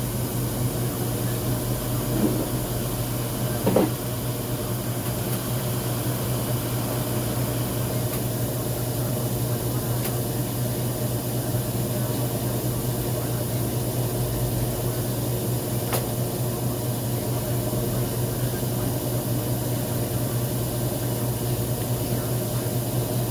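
Homemade electric blower fan running steadily, a low hum with a rush of air, with two brief knocks about two and four seconds in.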